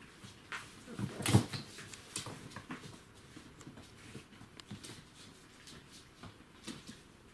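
Border collie puppies moving about: scattered light clicks and scuffles, with one louder thump about a second in.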